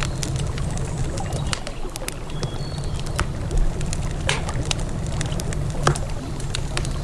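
Wood campfire crackling, with frequent irregular sharp pops and snaps, over a steady low rush of river water.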